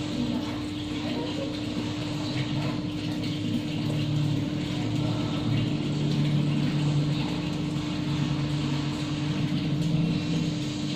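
Steady mechanical hum with one constant tone running through it and a wavering lower drone beneath.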